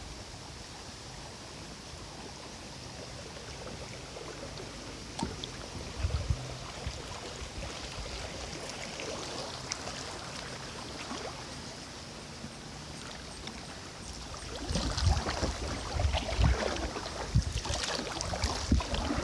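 Kayak paddle dipping and splashing in river water over a steady wash of moving water. The splashing grows louder and busier about three quarters of the way through.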